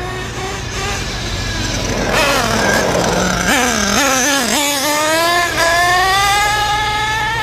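A .28 nitro engine in a 1/8 scale RC car running at high revs, its pitch dipping and climbing with the throttle, then rising steadily over the last couple of seconds.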